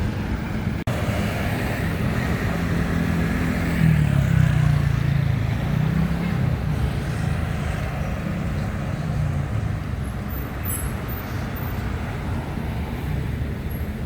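Road traffic: a vehicle's engine running close by with a low steady hum, loudest about four to six seconds in, over general street noise.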